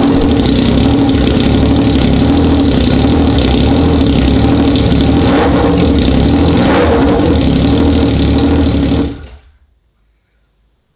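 Yamaha MT-09 SP inline-three engine running through an Over Racing titanium aftermarket exhaust, a loud, steady exhaust note with a few brief swells. The sound falls away to silence about nine seconds in.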